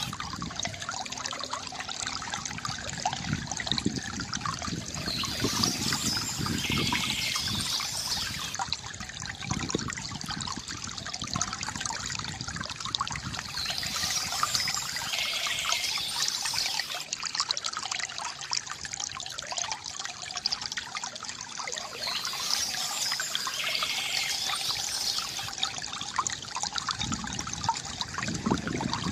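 Water trickling and splashing steadily from a bamboo fountain spout into a basin. Birds chirp in short spells that come back about every eight or nine seconds.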